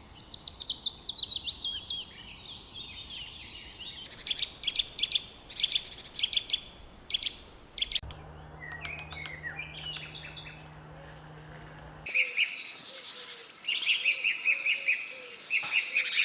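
Small songbirds chirping and singing: a fast falling trill at the start, then runs of short repeated chirps and overlapping calls from several birds. The background changes abruptly twice, about halfway through and again about three quarters in, where separate recordings are joined.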